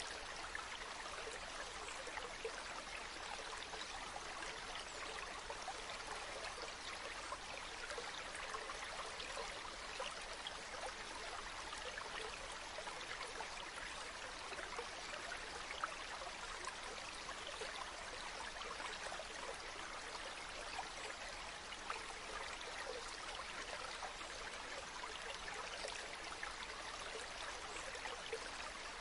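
Running water trickling and splashing in a steady, unbroken flow.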